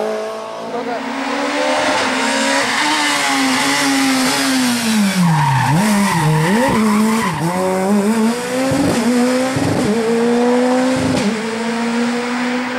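Rally car engine at high revs, dropping in pitch with quick throttle blips as the car brakes and downshifts about halfway through, then pulling away again with several quick gear changes; tyres squealing.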